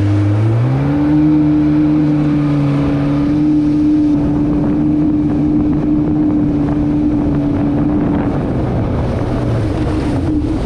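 Jet ski engine running under throttle. Its pitch rises about half a second in, then holds steady.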